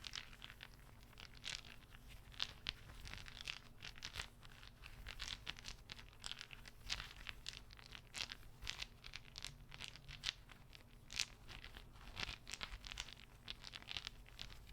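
Soft, irregular clicks and crisp crackles of a small object handled close to the microphone, several a second throughout.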